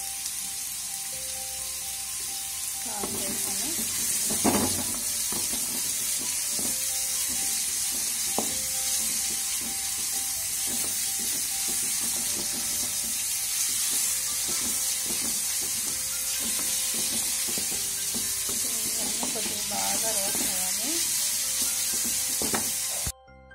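Chopped onions and green chillies sizzling as they fry over high heat in a metal wok, with a wooden spatula scraping and knocking against the pan as they are stirred; the loudest knock comes about four seconds in. The sound cuts off suddenly near the end.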